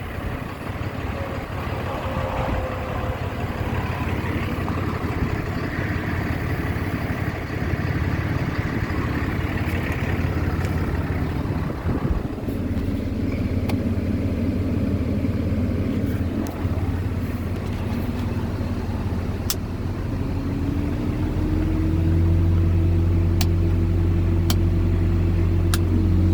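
Diesel engine of a 2011 Dodge Ram 5500 service truck idling steadily. About twenty seconds in, the hum grows louder and a higher steady tone joins it, as the truck's air compressor kicks in. A few light clicks come near the end.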